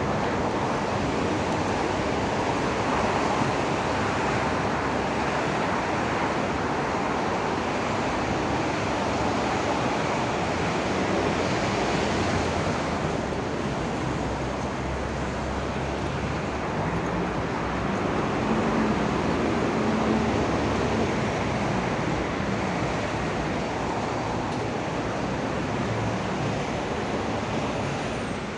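Steady rushing noise, even throughout, with no distinct knocks, voices or tones standing out.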